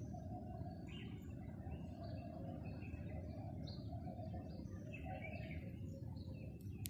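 Small birds chirping in short, scattered calls over a steady low background rumble, with a sharp click right at the end.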